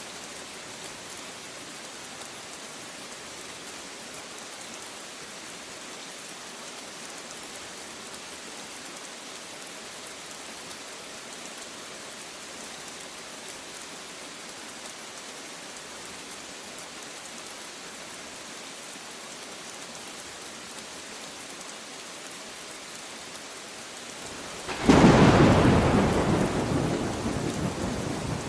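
Steady rain falling, then a loud clap of thunder bursts in about 25 seconds in and rumbles away slowly.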